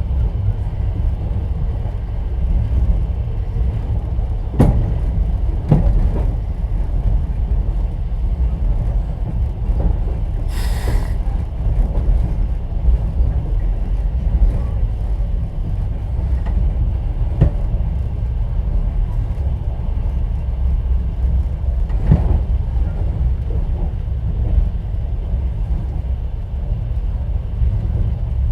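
Steady low rumble of a moving passenger train heard inside a sleeper carriage, with a few scattered knocks of the wheels over rail joints and a brief hiss about ten seconds in.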